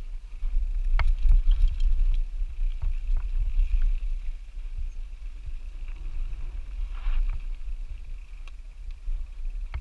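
Lapierre Zesty AM 427 mountain bike on a downhill descent, with wind buffeting the camera microphone as a heavy rumble. Sharp knocks and rattles from the bike and tyres come over rough ground, the loudest about a second in and again about seven seconds in.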